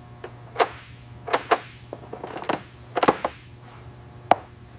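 A series of sharp, irregularly spaced clicks and clinks over a steady low hum.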